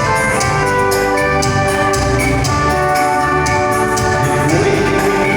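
Live band playing an instrumental passage: held melodic notes over a steady drum beat.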